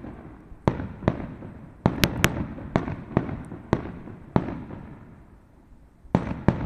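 Fireworks going off: about a dozen sharp bangs and cracks at irregular spacing, each trailing a low rumbling echo. A lull comes about four seconds in, and two more bangs follow near the end.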